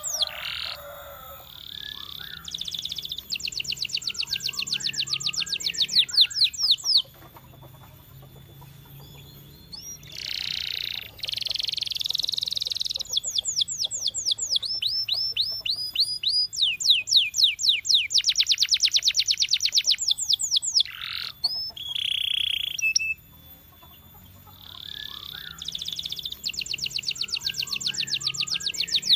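Domestic canary singing: phrases of rapid trills, each a fast run of repeated high notes, with a couple of short pauses between phrases.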